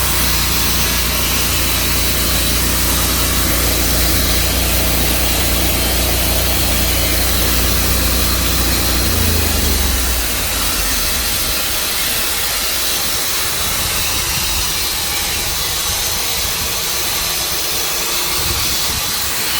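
Tru-Cut sawmill's engine running steadily under a hiss. About halfway through, the engine's low hum drops away and the steady hiss carries on.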